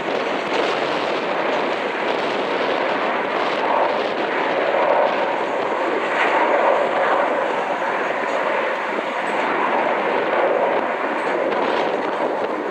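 McDonnell Douglas MD-87 jet airliner's two rear-mounted Pratt & Whitney JT8D turbofans at takeoff power: a loud, steady rushing noise that swells gently.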